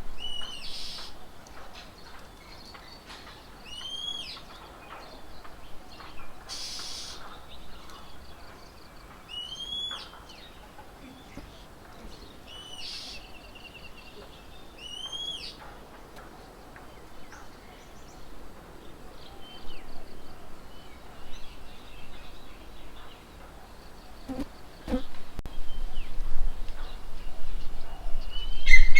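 Wild birds calling. A short arched call that rises and falls in pitch repeats about four times, several seconds apart, among faint chirps and other bird calls over outdoor background noise.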